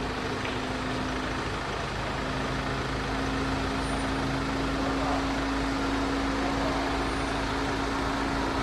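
A machine running steadily: an even mechanical noise with a constant hum.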